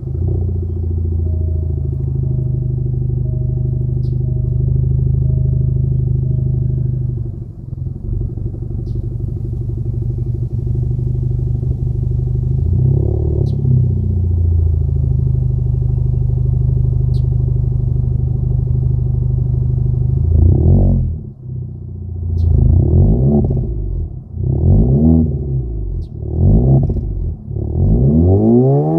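Alfa Romeo Giulia 2.0-litre turbo four-cylinder through a modified exhaust: stock muffler and resonator deleted, Magnaflow resonator fitted. It idles steadily, with one light blip about halfway. Then it is revved in about five quick blips over the last nine seconds.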